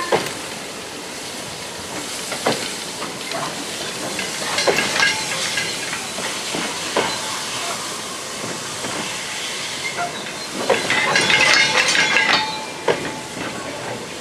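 Vintage loose-coupled goods wagons rolling slowly past, their wheels clanking and knocking irregularly over the rail joints. A shrill metallic squeal rises twice, briefly about five seconds in and louder for over a second near the end.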